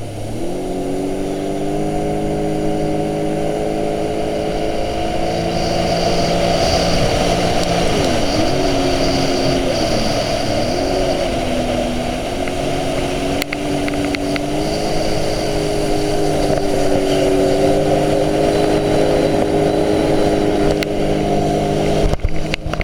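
Jet ski engine running at steady cruising throttle, its pitch dipping briefly and recovering as the throttle is eased off and reopened, right at the start and twice more about 8 and 10 seconds in.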